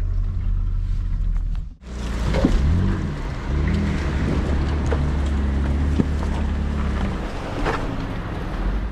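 Off-road vehicle engine running in a mud hole, revving up and down with a few sharp knocks. The sound drops out abruptly about two seconds in and picks up again.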